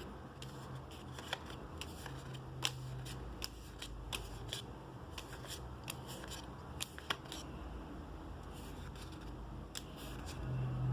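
Magic: The Gathering trading cards and their packaging being handled: an irregular run of small clicks, snaps and rustles as cards are flicked and sorted.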